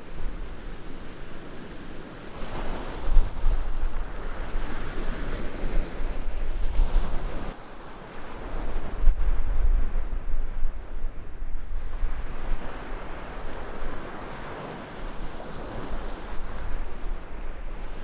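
Sea waves washing onto a beach, swelling and fading in several surges, with wind buffeting the microphone in low rumbles.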